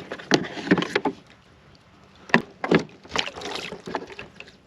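Knocks and taps on a fishing kayak: a few sharp ones in the first second, a quiet stretch, then more around two and a half to three seconds in.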